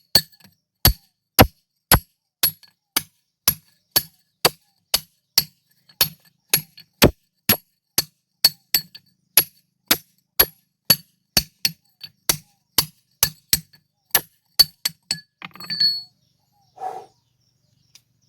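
Hand hammer striking steel into rock to cut stone, about two blows a second, each with a sharp metallic ring. The blows stop about fifteen seconds in, followed by a brief scrape and a short sound.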